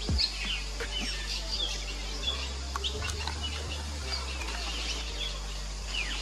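Fairy martins twittering around their mud-nest colony: many quick, high chirps and short downward-sliding calls overlapping without a break, over a low steady hum.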